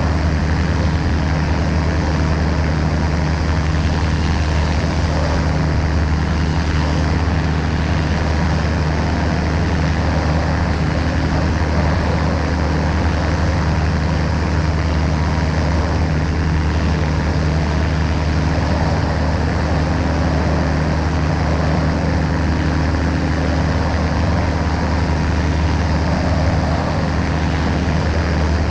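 Ultralight aircraft's engine and propeller running steadily at constant power, a loud, even drone.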